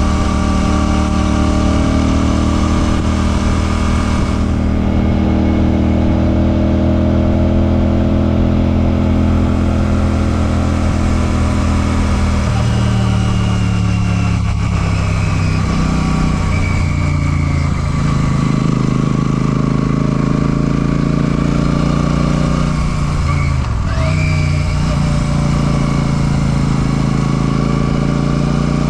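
Royal Enfield Classic 650's parallel-twin engine and exhaust running under way. The engine note holds steady for the first several seconds, then changes pitch several times about halfway through and again near the end as the revs rise and fall.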